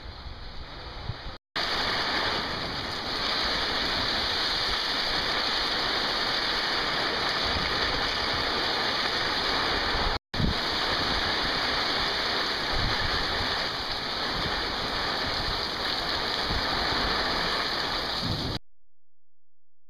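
Heavy rain pouring down in a steady, dense hiss. It drops out for an instant twice and cuts off abruptly near the end.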